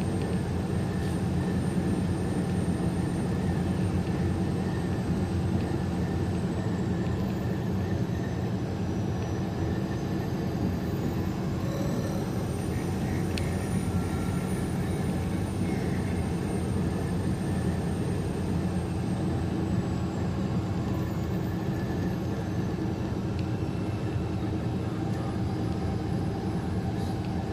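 Steady engine and road noise heard inside a semi-truck's cab while cruising on the highway.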